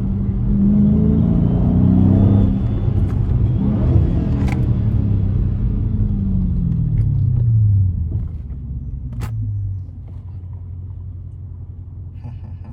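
Car engine pulling hard, its pitch climbing and dropping several times as it accelerates and shifts. About eight seconds in it eases off to a low, steady hum.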